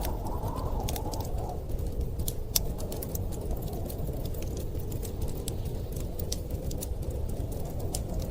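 Wood fire crackling in a fireplace, with many small sharp pops at irregular intervals over a steady low rumble of storm wind.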